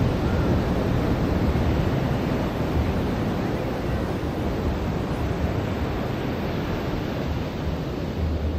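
Ocean surf washing onto a beach: a continuous rushing hiss with a low rumble underneath, easing slightly toward the end.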